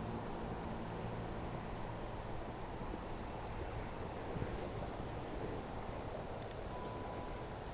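Steady high-pitched drone of insects over an even low rush of river water, with a brief faint whistle-like tone near the end.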